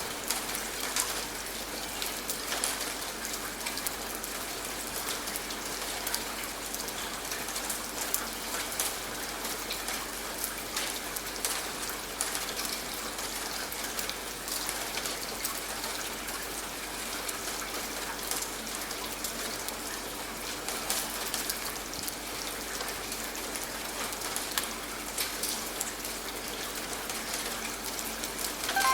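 Steady rain: an even hiss with scattered sharper drop hits throughout.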